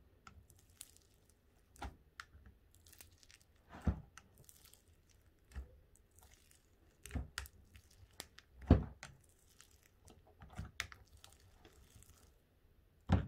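Butter slime being pulled and torn out of its tub by hand, with scattered sticky crackles and tearing sounds, about seven distinct ones, the loudest about two-thirds of the way through. The slime is coming apart in pieces instead of staying together.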